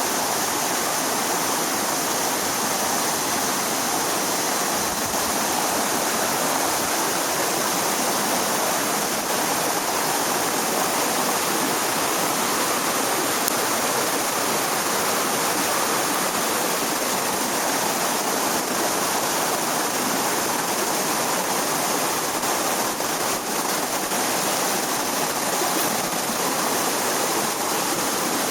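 Steady rushing of a stream's flowing water, even and unbroken.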